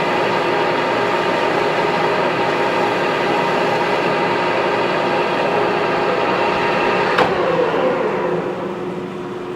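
A shop machine's electric motor running steadily with a dense, even hum. It is switched off with a sharp click about seven seconds in, and winds down with a falling pitch.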